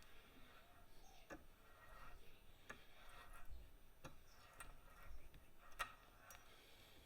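Near silence, broken by a few faint, irregularly spaced light clicks.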